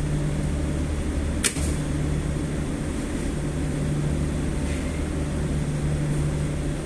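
Steady low machinery hum with a sharp click about a second and a half in.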